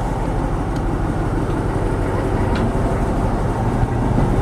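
A train running on the line: a steady low rumble with a couple of faint clicks.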